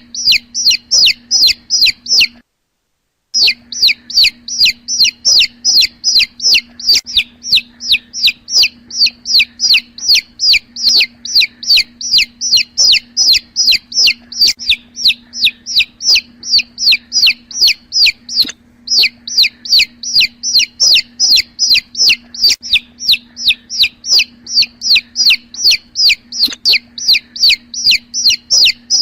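Nine-day-old poultry chicks peeping loudly and without pause, a rapid run of falling-pitch peeps at about four a second, over a steady low hum. The sound drops out completely for under a second near the start.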